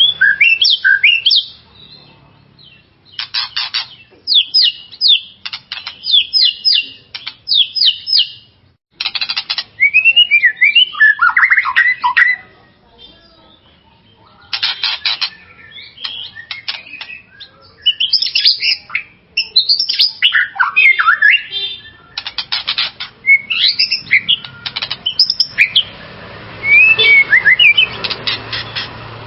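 White-rumped shama (murai batu) singing in loud spells of a few seconds with short pauses between them. Fast runs of sharp repeated chattering notes alternate with clear whistled notes that slide up and down.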